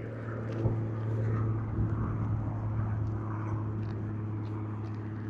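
Steady engine hum and road noise heard from inside a moving vehicle, with a single knock about a second in.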